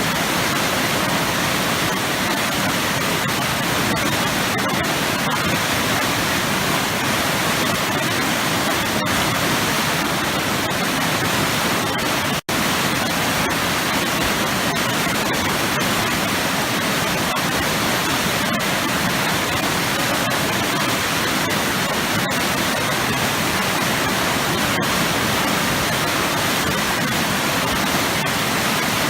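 Powerful waterfall pouring into churning water: a steady, dense rush. It cuts out for a split second about twelve seconds in.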